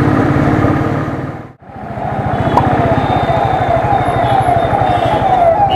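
A Royal Enfield Thunderbird's single-cylinder engine thumps steadily under riding noise. The sound drops out briefly about one and a half seconds in. From about two seconds in, an ambulance siren sounds, its tone falling over and over, about three times a second.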